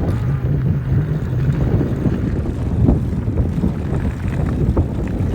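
Wind buffeting the microphone of a Jasion EB7 e-bike rider, over a steady low rumble from the bike rolling along a trail at speed, with a few faint clicks.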